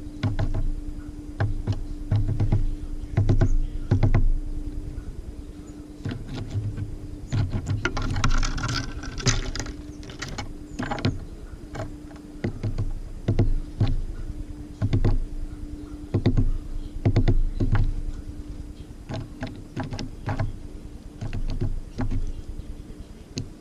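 Tits at a bird feeder: irregular knocks and taps as the birds land and peck at seed, with a denser scratchy flurry about eight to eleven seconds in, over a steady low hum.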